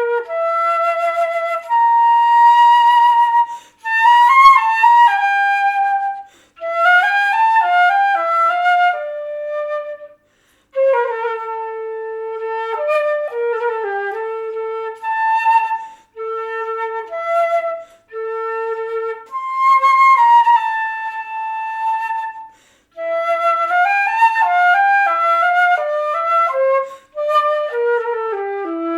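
Solo flute improvising a slow melody in phrases of held notes and quick runs, with brief pauses between phrases.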